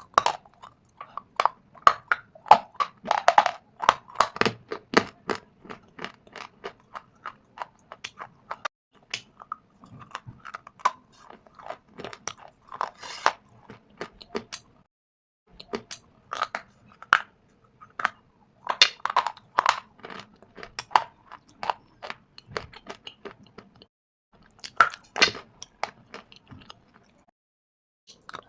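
A person crunching and chewing pieces of shale stone and dried clay: runs of sharp, brittle crunches with a few short pauses between bites.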